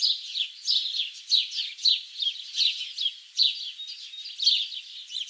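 Small birds chirping: many short, high chirps that slide downward in pitch, several a second and overlapping.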